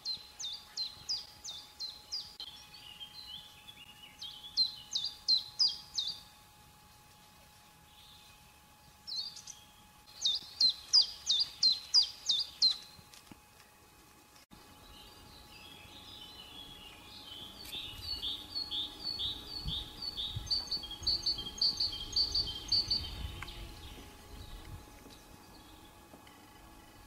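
Songbirds singing: phrases of quick, high, repeated chirps, each lasting a few seconds, then a longer, denser song in the second half that grows louder before it fades.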